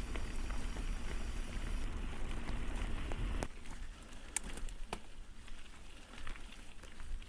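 Mountain bike rolling down a rough dirt trail: a steady rumble of tyres over gravel. It drops off suddenly about three and a half seconds in, leaving quieter scattered ticks and crackles as the bike slows.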